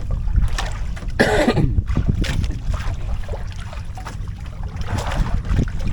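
Wind rumbling on the microphone aboard a small fishing boat at sea. A little over a second in there is a short throaty vocal sound, and a few brief rustling noises come later.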